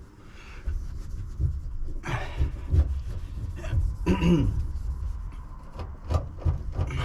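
Handling noise of self-adhesive sound-deadening mat being pressed onto the van's metal panel: irregular knocks and rubbing, with a short vocal sound from the worker about four seconds in.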